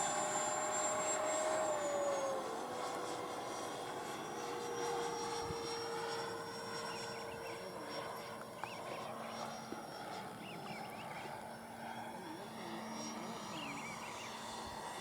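Electric ducted-fan RC jet whining overhead in flight, over a rush of air. The whine drops in pitch about two seconds in, then holds steady.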